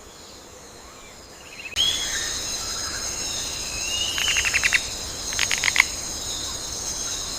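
Rainforest ambience that switches on abruptly about two seconds in: a steady, high insect chorus, with a chirp, a rising call that breaks into a rapid clicking trill, and a second clicking trill.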